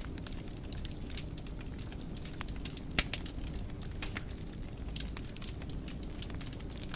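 Wood fire crackling in a fireplace: frequent small sharp pops and snaps over a steady low rumble of flames, with one much louder pop about three seconds in.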